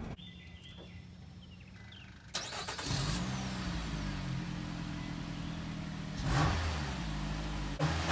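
Nissan Rogue's 2.5-litre four-cylinder engine heard at the exhaust, idling and revved up twice, each rev rising and settling back to idle.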